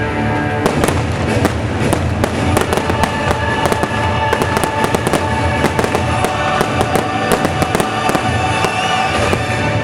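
Fireworks crackling and popping in a dense rapid stream of sharp cracks, over the show's soundtrack music holding sustained chords.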